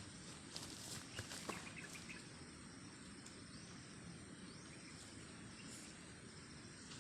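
Faint outdoor ambience with insects chirring steadily, and a few short clicks and rustles in the first two seconds.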